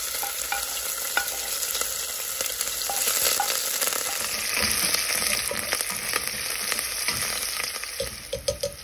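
Chopped ginger, garlic, green chillies and curry leaves sizzling as they fry in hot oil in a stainless steel pot, a steady hiss with scattered light clicks.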